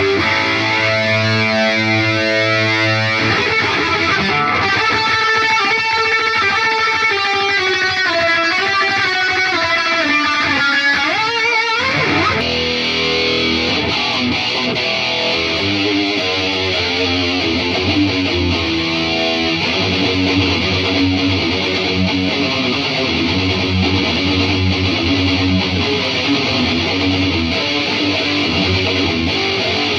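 Electric guitar played through an Atomic AmpliFire modeling pedal into cheap computer speakers. A held chord is followed by notes sliding down and back up in pitch, then distorted riffing from about halfway through.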